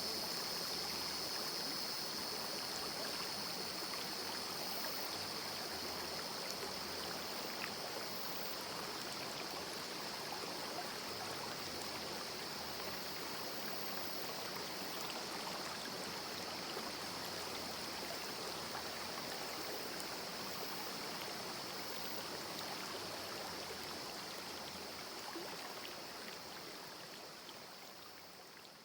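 Small rocky river stream flowing: a steady babbling rush of water, fading out near the end.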